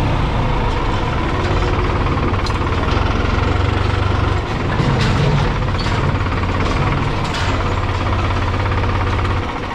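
New Holland T480S tractor's diesel engine running steadily, its note changing briefly about halfway through and dropping away just before the end.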